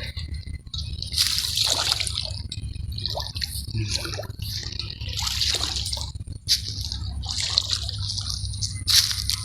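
Shallow water splashing and dripping in irregular bursts about once a second, over a steady low rumble.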